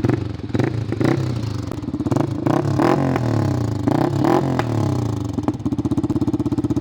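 Yamaha R15 V3's single-cylinder engine through an aftermarket exhaust with bend pipe and the dB killer left out. It is blipped through a string of quick revs, each pitch sweeping up and falling back, then drops back to a steady pulsing idle near the end.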